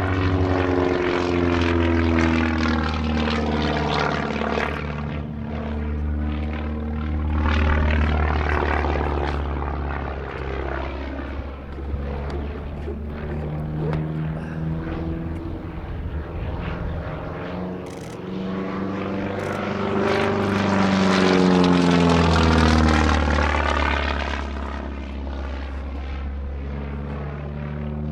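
Propeller-driven aerobatic airplanes flying past in a display. The engine drone swells and fades twice, loudest about a third of the way in and again near the end, with its pitch falling as they go by.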